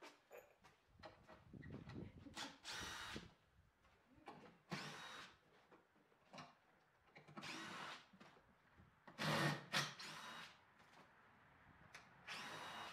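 A power drill running in about five short bursts, each under a second, as screws are driven into the wooden ramp; heard faintly, at some distance.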